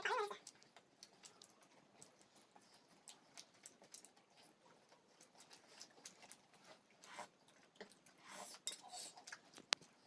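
Faint mealtime sounds of people eating chicken momos: scattered light clicks of utensils against dishes, soft chewing, and one sharper click near the end.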